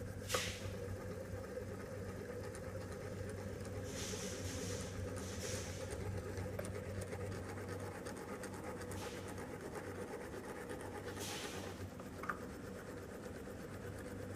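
The AIRBOX air-control unit of a HWAM stove with the IHS system running: a steady low hum, with a sharp click near the start and another about twelve seconds in, and a few brief hissing swells of air.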